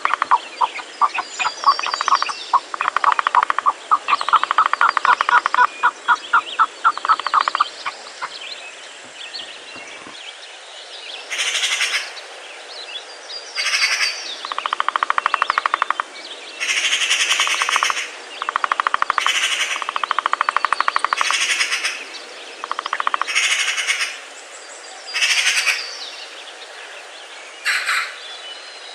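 Birds calling in a forest. First comes a rapid run of pulsed notes for about eight seconds, then a string of short, harsh, rapidly pulsed bursts, about one every one to two seconds.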